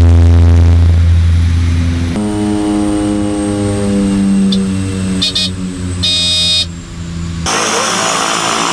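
Small propeller aircraft's engine running, a steady drone that shifts abruptly about two seconds in and then slowly drops in pitch. Brief high beeps sound around five and six seconds in. The sound changes abruptly again near the end to a noisier engine sound.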